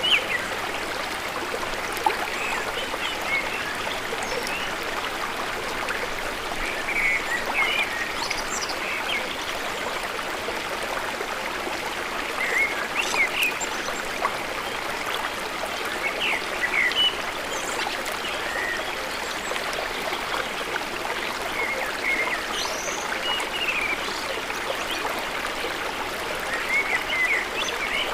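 Flowing river water with many short bird chirps scattered throughout.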